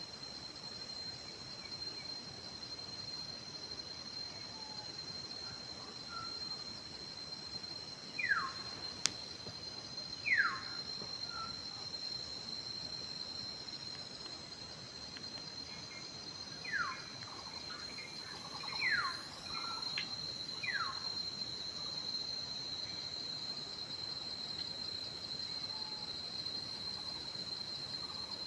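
A steady, high insect drone, like crickets, runs throughout. A bird cuts through it with about five short, sharp, downward-slurred whistles in two loose groups in the middle.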